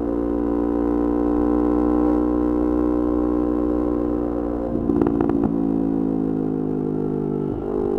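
Yamaha R25 parallel-twin engine running through a Kea Speed aftermarket exhaust at steady revs. About five seconds in there is a short burst of crackles, and the engine note then drops to a lower pitch. It dips briefly again near the end.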